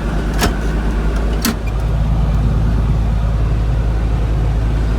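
Engine running steadily, a little louder from about two seconds in. Two sharp clicks come in the first second and a half.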